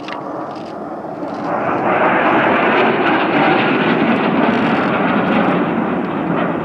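Fighter jet engine noise: a dense rushing sound that swells about two seconds in, holds steady and eases slightly near the end.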